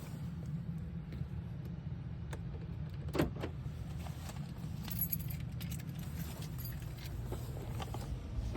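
Truck engine idling with a steady low hum. Keys jangle now and then, and a loud thump comes at the very end.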